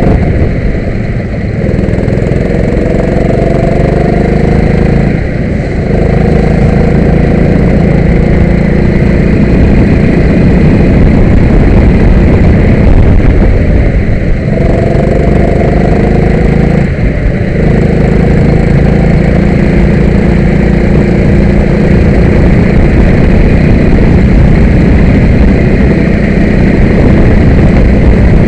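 Kart engine running hard and continuously, its pitch easing down between short dips in engine speed, four in all.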